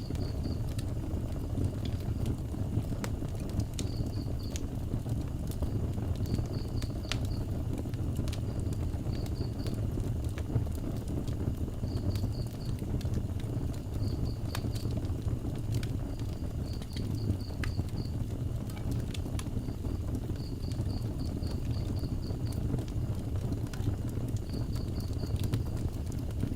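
Wood fire burning outdoors: scattered sharp crackles and pops over a steady low rumble. A high chirping call repeats in short runs of three to six pulses every couple of seconds.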